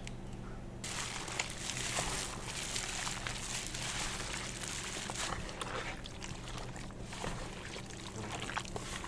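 Chicken frying in hot oil: a sizzling hiss with many small crackles that starts suddenly about a second in.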